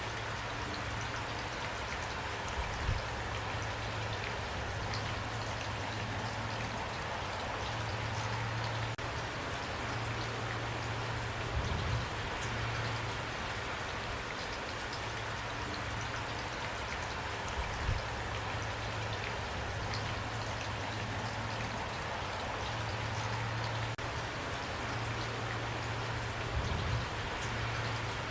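Steady rain falling, drops pattering on a surface, with a low steady hum underneath and four soft low thuds spread through it.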